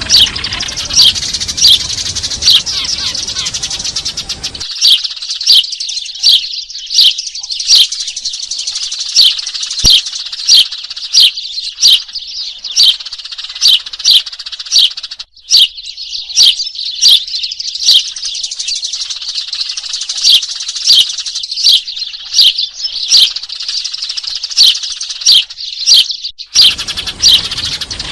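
Eurasian tree sparrows chirping noisily: one loud, short, falling chirp repeated about every two-thirds of a second over the steady twittering chatter of a flock.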